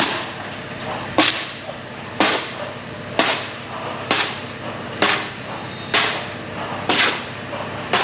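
Steady mechanical hum with a sharp knock about once a second, regular throughout.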